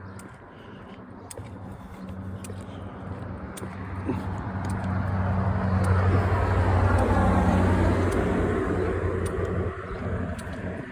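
A car drives past. Its engine hum and tyre noise build over several seconds, are loudest about two-thirds of the way through, then fade.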